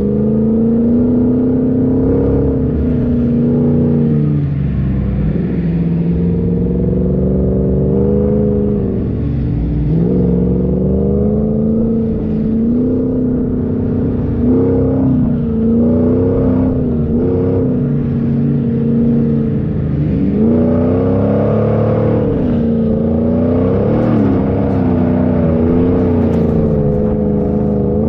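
Off-road 4x4's engine revving up and down, its pitch rising and falling every few seconds.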